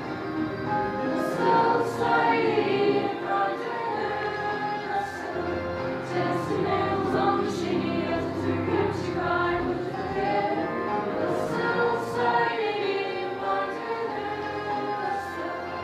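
A choir singing, many voices together holding sustained sung notes.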